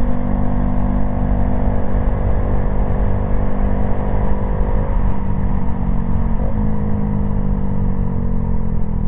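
Honda Grom's single-cylinder motorcycle engine running under way at a steady speed, over low wind rumble on the microphone. The engine pitch holds steady, then eases slightly lower about halfway through, with a brief break about two-thirds of the way in.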